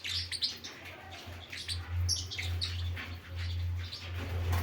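Several caged parrotlets chirping, with many short, high chirps overlapping one another. A steady low hum runs underneath.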